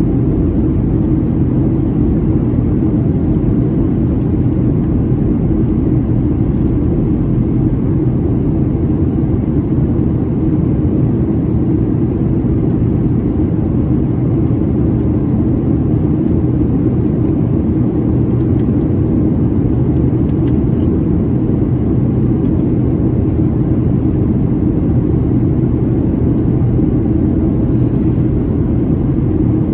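Steady cabin rumble inside a Boeing 737-700 on descent: engine and airflow noise heard from a window seat, even and unchanging, mostly low in pitch.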